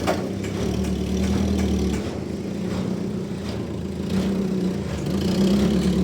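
Sawmill machinery's engine running steadily, its low drone easing off about two seconds in and building again near the end, with a few scattered knocks.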